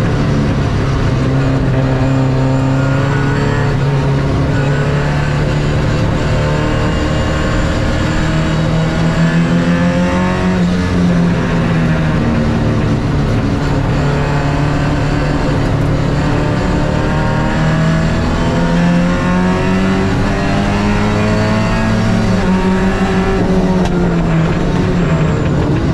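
MGB roadster's four-cylinder engine at racing speed, heard from on board: the revs climb, then drop back at each gear change several times over, along with road and wind noise.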